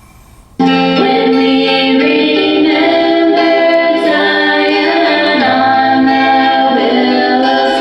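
A radio tuned in to a song with a sung vocal, cutting in abruptly about half a second in and playing loud and steady until it cuts off at the end.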